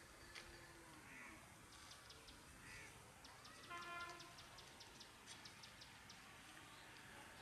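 Faint bird calls in near silence. The loudest is one pitched call about four seconds in, with a quick run of faint high ticks around it and a few softer calls earlier.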